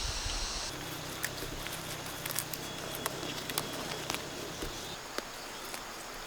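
Outdoor garden ambience: a high insect buzz that stops under a second in, then scattered light clicks and rustles.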